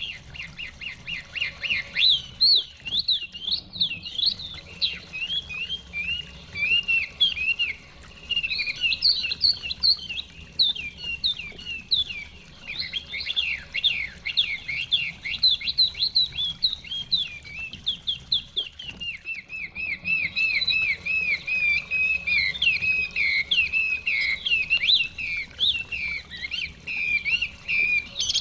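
Chinese hwamei (họa mi) singing a long, loud, varied song of fast repeated whistled notes, the phrase changing every second or two, over a faint steady low background.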